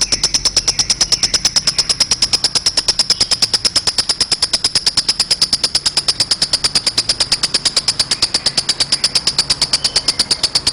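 Lovebird ngekek: one long unbroken chatter of rapid, even, high-pitched notes at about eight to ten a second, drifting slightly lower in pitch.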